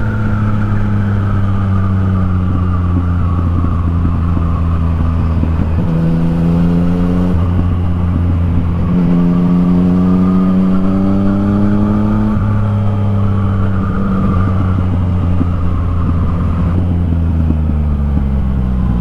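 Yamaha MT-09's three-cylinder engine through an Akrapovic exhaust while riding. The note holds mostly steady, climbs gradually in pitch through the middle, then drops suddenly, with a few smaller pitch shifts along the way.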